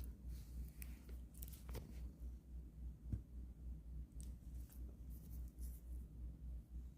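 Faint scattered rustles and light taps from a cat playing with a feather toy, over a low throbbing hum that pulses about three times a second.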